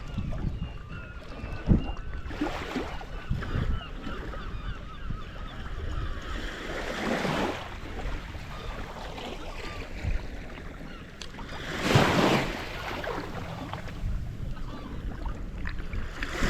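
Wind rumbling on the microphone with several swells of water noise. Birds call repeatedly in the first few seconds.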